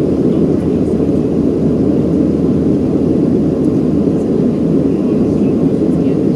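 Steady low noise of a Boeing 737-800's CFM56-7B jet engines and airflow, heard from inside the passenger cabin.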